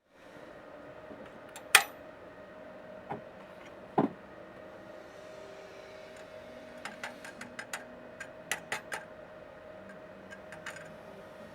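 Hand tools and metal parts being handled: two sharp knocks about two and four seconds in, then runs of light quick clinks, over a faint steady hum.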